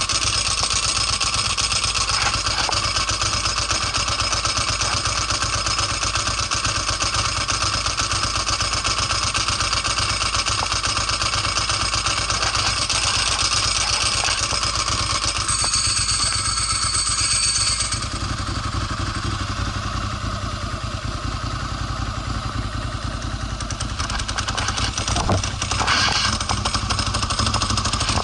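Ducati Monster S4's L-twin engine running steadily; about two-thirds of the way through its note changes, as a high whine fades and the low end grows, with a few sharp clicks near the end.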